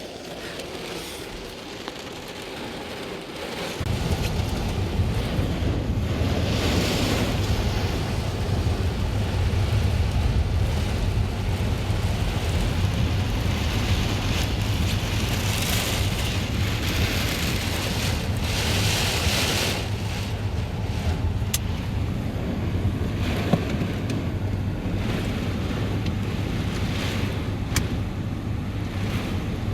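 Storm wind buffeting the phone's microphone: a heavy low rumble that sets in about four seconds in, with gusts swelling and fading every few seconds.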